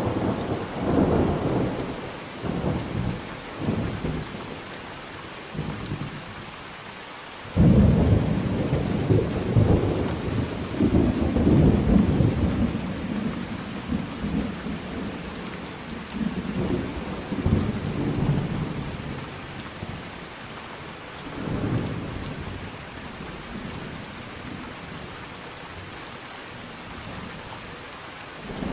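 Thunderstorm: steady rain with rolling thunder. A loud clap about seven seconds in rumbles on for several seconds, followed by more rolls, and the thunder eases near the end.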